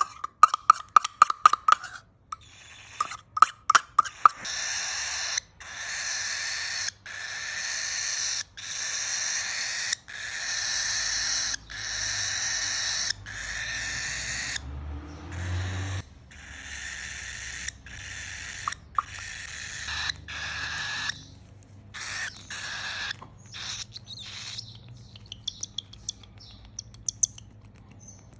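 Young cockatiel, at about 25 days old, giving a long series of raspy, hissing calls, each about a second long with short breaks between; these are typical of a chick begging for food. Quick clicks and short chirps come in the first couple of seconds and again near the end.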